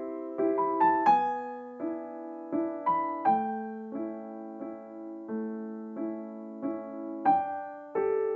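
Background piano music: a gentle, slow melody of struck notes over chords, about two notes a second.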